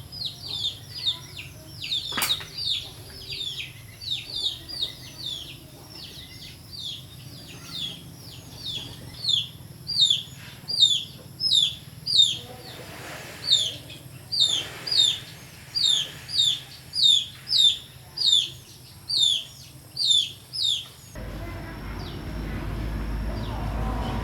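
A small bird chirping over and over, short hooked chirps about twice a second. Near the end the chirps stop and a steady low noise comes in, growing louder.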